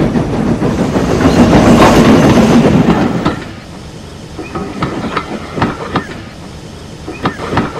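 A train passing: a loud rush of engine and wheels for about the first three seconds, then quieter carriages rolling by with a clickety-clack of wheels over rail joints.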